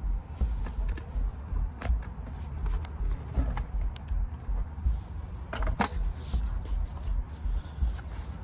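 Limestone being knapped: scattered sharp clicks as small flakes snap off the stone point, about half a dozen, the loudest pair a little past the middle, over a low rumble.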